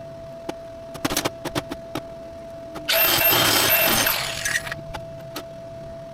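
A few light metallic clicks and clinks, then a loud hiss lasting about a second and a half, over a faint steady hum.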